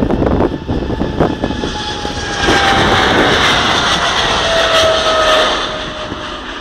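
Boeing 777 jet engines at takeoff power, a loud roar that swells to its peak about midway and then eases, with a high whine that falls steadily in pitch.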